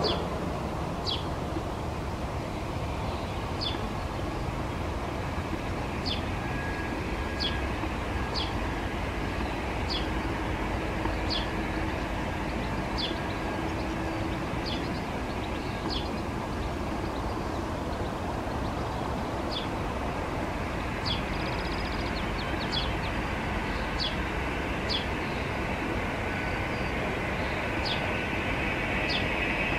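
A bird chirping short, high notes about once a second, at uneven gaps, over a steady rumbling background.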